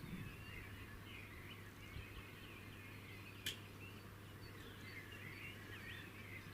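Faint birdsong: small birds twittering in many quick, curving chirps. A single sharp click comes about three and a half seconds in, over a low steady hum.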